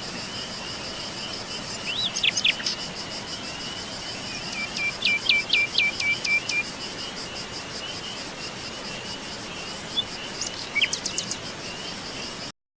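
Insects, crickets by the sound, chirring steadily with a fast, even pulse, while songbirds call over them: a short call about two seconds in, a run of about six quick repeated notes a little later, and a few more calls near the end. The sound cuts off suddenly just before the end.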